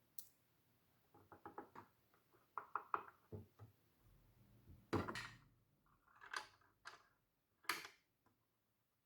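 Hello Kitty plastic toy refrigerator being handled: quick runs of light taps and clicks, then a few louder knocks, the loudest about five seconds in.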